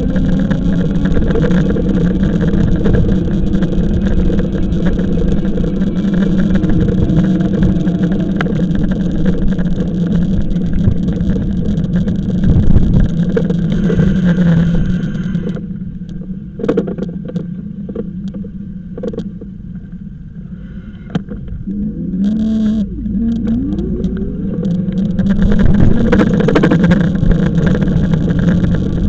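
E-bike on the move: a steady motor drone with wind and road noise. It eases off a little past halfway, with a few clicks, then picks up again with a rising whine as the bike speeds up.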